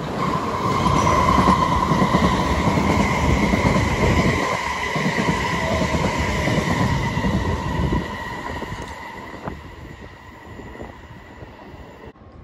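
South Western Railway electric multiple unit train running past close by: a loud rumble of wheels on rail with a steady high whine over it. It fades away over the last few seconds as the train draws off.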